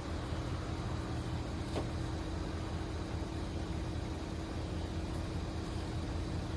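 A vehicle engine idling steadily during a jump-start, with an even hum.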